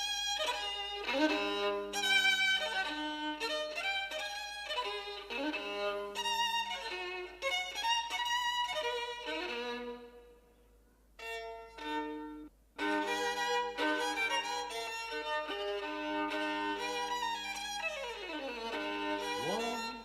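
Solo violin by the old Italian maker Giovanni Grancino, bowed in melodic phrases with a profound tone and a beautiful low register. The playing breaks off briefly about halfway and ends with a slide down to the low strings.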